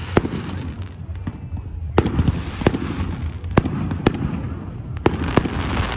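A fireworks display: sharp bangs of shells bursting roughly once a second, with crackling between them that builds near the end.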